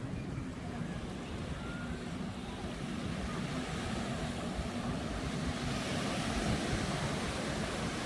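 Ocean surf washing up on the beach, a steady rushing that grows a little louder about halfway through, with wind buffeting the microphone and a faint low steady hum underneath.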